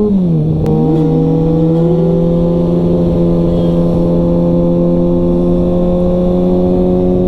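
Sportbike inline-four engine running at steady revs while riding. The revs dip briefly at the start and then hold an even note, with a second engine note rising and falling for a moment about a second in.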